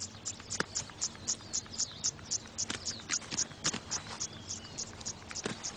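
Insects chirping in a steady rhythm, about four short high chirps a second, with a few sharp clicks or knocks scattered through.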